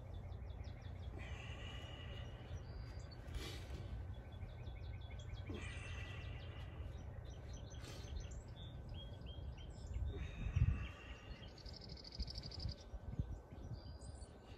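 Small birds singing, with repeated chirps and trills, over a steady low rumble; the rumble swells louder about ten seconds in.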